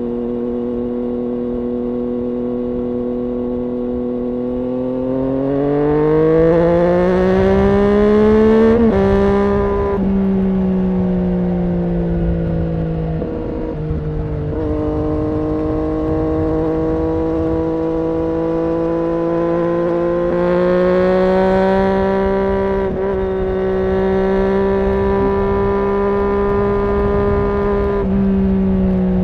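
Triumph Daytona 675's three-cylinder engine running through an IXIL aftermarket exhaust. Its note holds steady, rises for a few seconds as the revs climb, drops back about nine seconds in, then mostly holds level with a brief dip and a few small rises.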